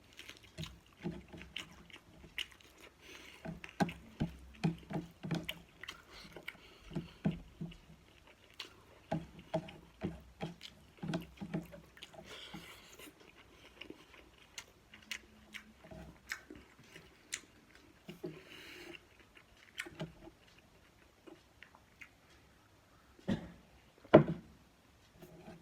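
Close-up eating sounds: irregular chewing and biting with short crunchy, wet mouth clicks, and one sharper knock near the end.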